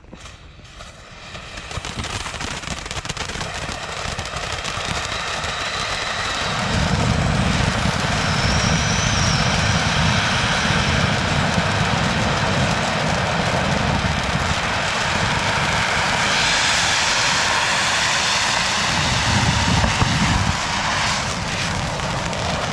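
Spinning ground fountain firework burning: a steady rushing hiss of sparks that builds over the first couple of seconds. A deeper rumble joins about seven seconds in and again around twenty seconds, and the hiss grows brighter from about sixteen seconds.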